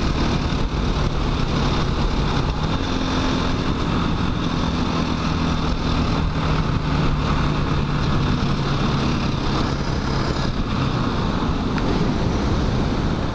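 KTM 500 EXC-F single-cylinder four-stroke dual-sport motorcycle running at a steady cruise, its engine pitch holding level, with wind rushing over the helmet microphone.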